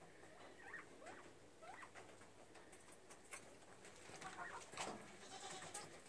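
Faint bird calls from small birds in a wire hutch: a few short rising chirps in the first two seconds, with soft scratchy clicks throughout and a sharper click a little before the end.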